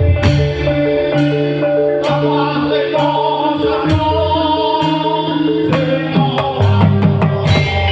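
Live band music: a fast, evenly repeating pattern of short notes over a steady bass line, with regular drum hits.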